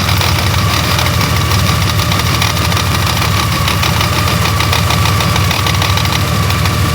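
Honda Gold Wing GL1800's flat-six engine running steadily with a rapid, regular knocking: an abnormal engine noise that the owner reports is getting worse and comes with vibration felt through the handlebars.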